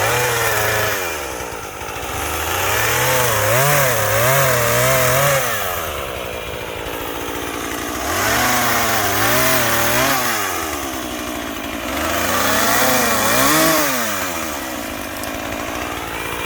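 Chainsaw revving up into cuts about four times, its pitch wavering up and down as the chain loads in the wood, then dropping back to a lower idle between cuts.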